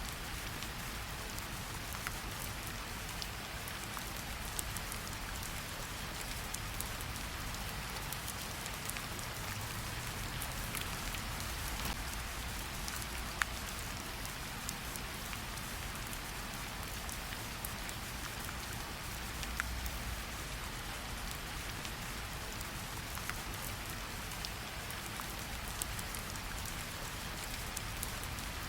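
Steady light rain falling on tree leaves, an even patter with scattered sharper drips and drops landing throughout.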